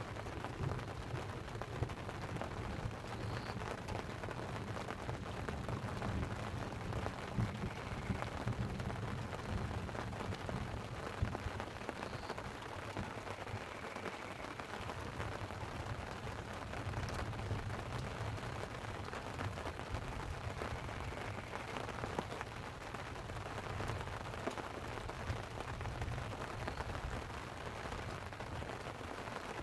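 Light rain pattering steadily with a low storm rumble that swells and eases, and scattered sharp ticks and pops throughout.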